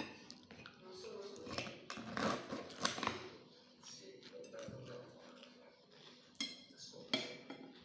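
Cutlery clinking and scraping against a plate during a meal, with a few sharp clinks spread through, the loudest about two to three seconds in and near the end.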